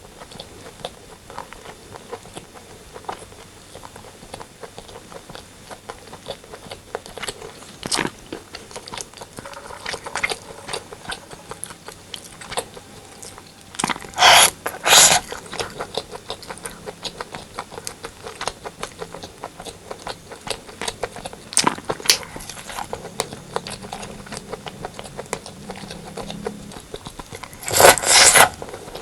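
Close-up eating sounds: mouth chewing of braised pork and rice with many small wet clicks and smacks. There are louder noisy bursts about halfway through and near the end.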